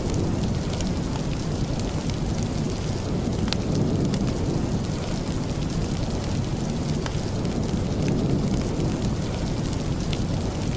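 Steady rain with a deep, even rumble underneath and scattered small sharp ticks.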